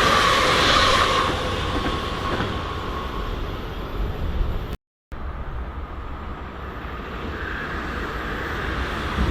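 A train running past on the tracks: dense rumbling rail noise, with a steady high tone in the first second or so. The sound cuts out completely for a moment near the middle, then the train noise resumes and grows louder near the end.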